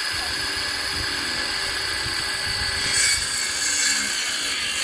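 Power saw running steadily through a piece of wood, the motor cutting off suddenly about a second and a half after the end of the cut.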